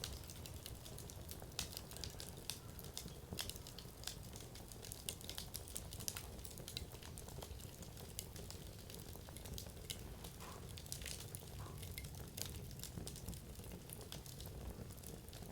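Wood fire crackling, with frequent small, irregular pops and snaps of the burning firewood over a steady low hiss and rustle of the flames.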